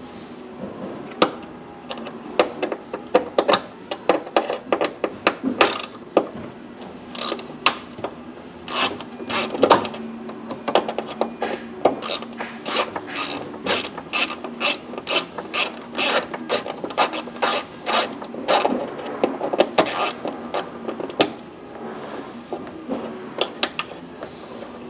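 Ratchet wrench clicking in quick, uneven runs as a screw is backed out, over a low steady hum.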